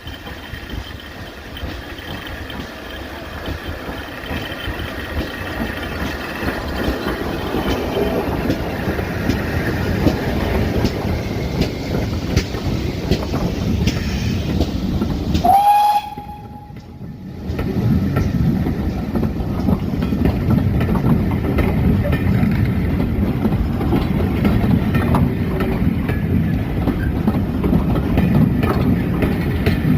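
Train running on the rails, its wheels clattering and the noise growing steadily louder. About halfway through a short high note sounds, rising then holding. The sound then drops away for about a second and a half before the train noise comes back louder.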